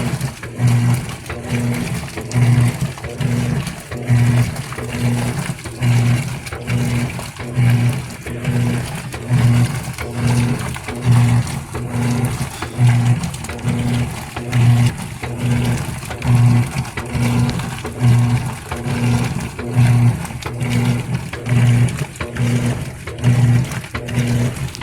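GE Spacemaker GUD24ESSM1WW washer agitating during the wash: the motor hums in short strokes, about one a second, with water swishing between them.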